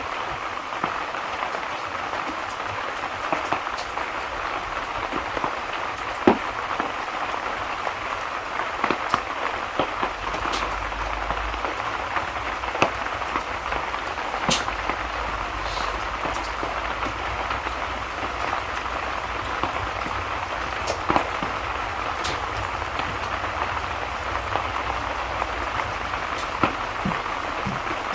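Steady rain falling, a continuous even hiss, with scattered sharp pops every second or two.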